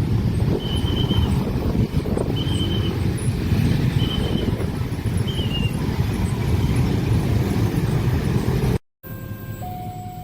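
A long train passing over a level crossing: a loud, steady rumble of wheels on the rails. Over it the crossing's warning signal sounds short high tones about every second and a half. Near the end it cuts abruptly to a quieter scene where the crossing alarm rings on.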